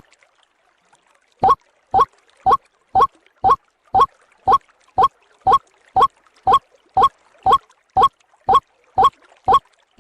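White-breasted waterhen (ruak-ruak) lure call: a short pitched note repeated evenly about twice a second, starting after a brief pause about a second and a half in.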